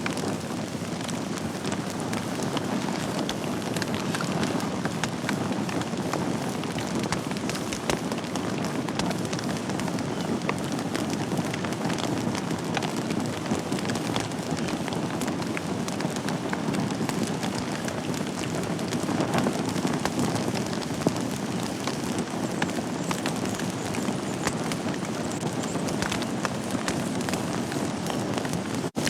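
Wood fire burning in a fireplace: a steady low rush of flames with frequent small crackles and an occasional louder pop.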